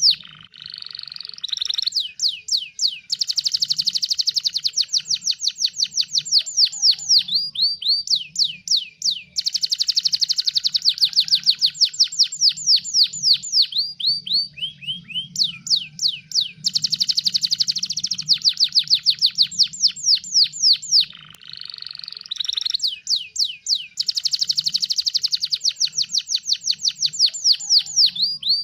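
Domestic canary singing in long rolling trills: each phrase is a rapid run of repeated falling notes, and a new phrase starts every few seconds. A faint low hum runs underneath.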